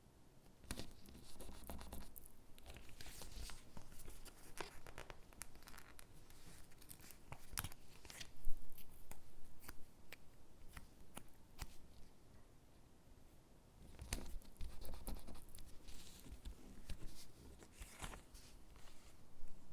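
Stickers being peeled from their backing sheet and pressed onto paper cutouts, with paper rustling and small scratchy clicks, and one sharp tap about eight seconds in.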